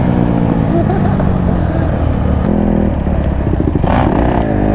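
Yamaha YZ450F single-cylinder four-stroke dirt bike engine running close by, its pitch rising and falling with the throttle. There is a brief rush of noise about four seconds in.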